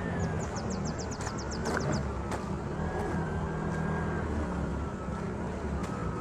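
Street ambience with a motor engine running steadily, its pitch shifting a little. A fast high chirping trill runs through the first two seconds, with a few scattered clicks.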